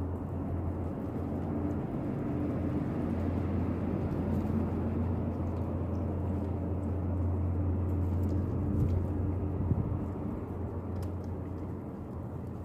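A steady low mechanical rumble, like engine noise, that swells slightly and eases off near the end.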